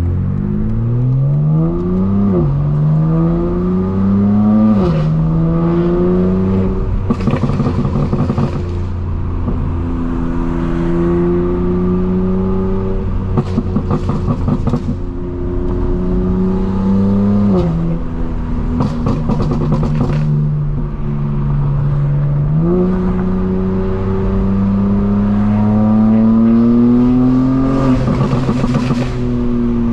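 Straight-piped BMW M4 Competition's twin-turbo inline-six accelerating through the gears. Its pitch climbs, then falls sharply at each upshift, four times. Between the pulls the exhaust gives bursts of rapid crackling.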